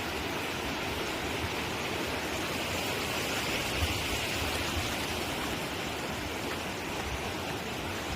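Steady rushing of a mountain stream's running water, with a few faint low thumps.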